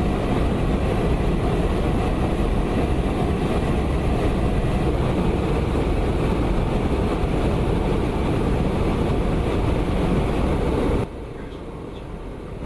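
Steady jet aircraft noise, a dense even rush with no clear pitch, dropping suddenly to a quieter level about eleven seconds in.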